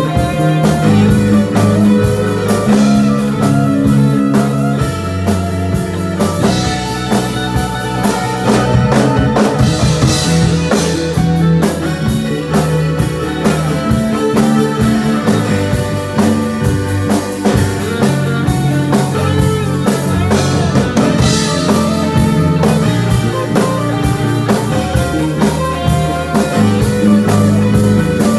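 Rock band playing live through a loud PA: drum kit and guitar over a steady bass line, with the cymbals swelling twice.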